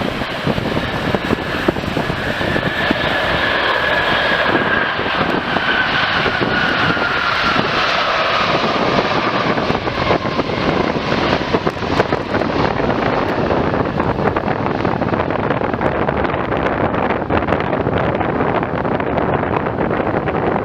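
Boeing 747 freighter's four jet engines passing on landing approach: a steady jet roar with a whine that falls slowly in pitch as the plane goes by, the hiss growing duller as it moves away.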